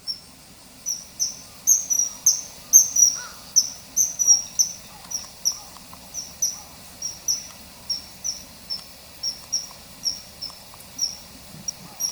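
Common kingfisher calling: a long run of short, high, piercing whistles, about two a second, each dipping slightly in pitch. A faint steady high tone lies underneath.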